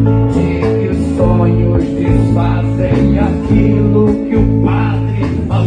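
Live band music with guitars over a steady bass line.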